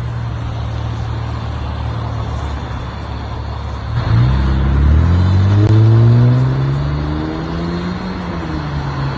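Nissan Maxima A33's 3.0-litre V6 running through a stainless steel straight-through rear muffler: steady idle, then about four seconds in a single rev that climbs, holds and falls back to idle near the end. The exhaust note is pleasant and velvety.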